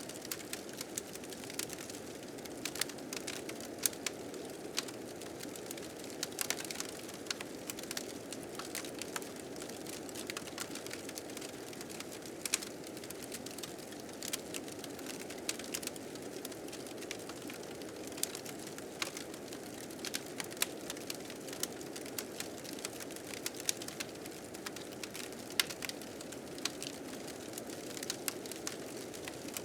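Wood fire crackling, with frequent sharp irregular snaps, over the steady noise of blizzard wind.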